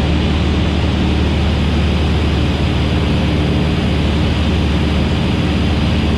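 Van's RV-8 light aircraft's piston engine and propeller droning steadily, heard from inside the cockpit in the landing pattern, with no change in pitch or level.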